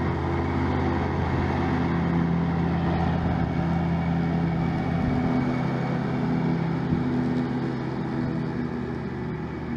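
Grasshopper 900D mower's Kubota D1305 1.3-litre diesel engine running steadily under load while the mower cuts tall, wet grass. It gets a little quieter near the end.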